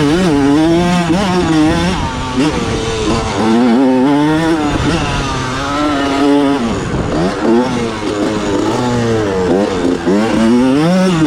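1987 Honda CR125's single-cylinder two-stroke engine revving, its pitch climbing and dropping again and again as the throttle is opened and shut.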